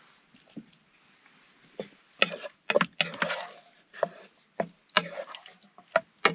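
A utensil knocking and scraping against cookware in a series of sharp, uneven clacks, with a quick run of taps near the end.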